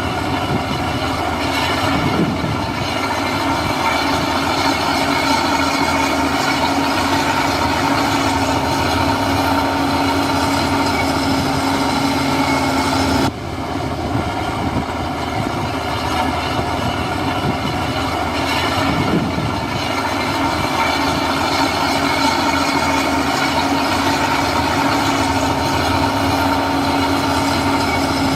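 Heavy construction machine's diesel engine running steadily, with a constant whine over the engine noise; the sound breaks off and resumes abruptly about thirteen seconds in.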